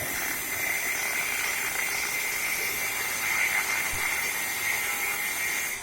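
Iron being cut with a power tool: a steady hiss with a constant high tone running through it, stopping abruptly at the very end.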